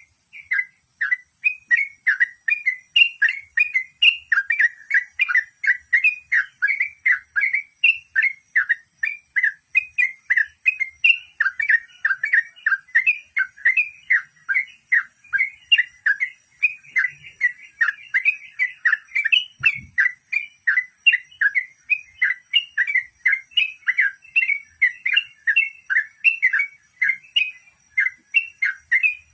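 Yellow-vented bulbul (trucukan) singing in a rapid, unbroken run of short chirping notes, about three a second. This is the fast nonstop delivery that bird keepers call 'ngeropel'.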